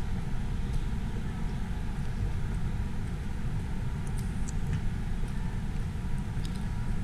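Steady low rumble of an outdoor city snowstorm, wind buffeting the microphone over road traffic, with faint scattered ticks.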